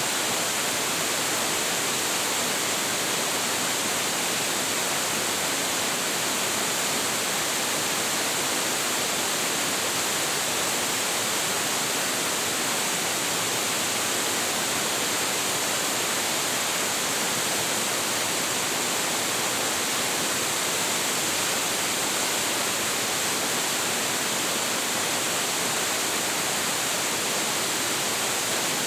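Large waterfall with heavy flow, its water crashing down in an even, steady rush of noise with no breaks.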